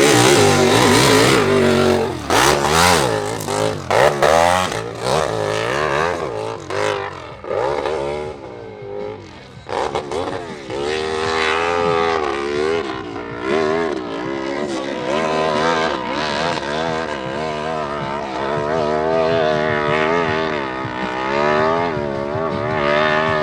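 Open-class hillclimb motorcycle engine revving hard, its pitch rising and falling over and over with the throttle. It is loudest at first, drops back briefly about a third of the way in, then keeps on with repeated rises and falls in pitch.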